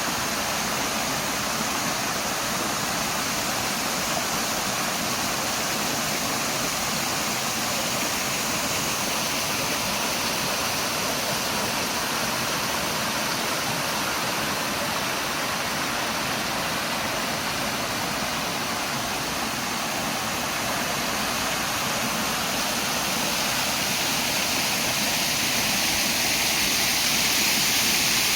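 Steady rush of flowing water, growing a little louder near the end.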